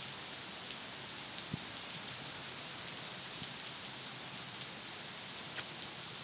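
Steady rain falling, an even hiss with a few sharper drops standing out now and then.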